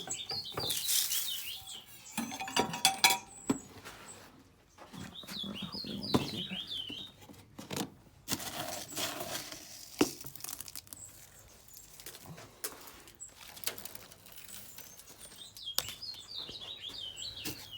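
Small aviary birds calling in runs of short, wavering high chirps three times, about half a second in, around six seconds in and near the end, over scattered clicks and rustling.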